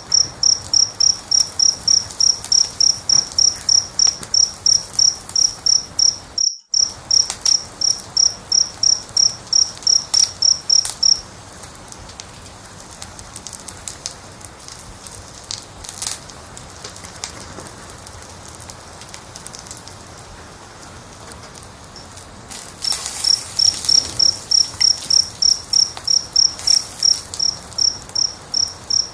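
A cricket chirping steadily, about three chirps a second, over a crackling fire with scattered small pops. The chirping stops about eleven seconds in and starts again about twelve seconds later, leaving only the fire's crackle and hiss in between. All sound cuts out for a moment a little after six seconds.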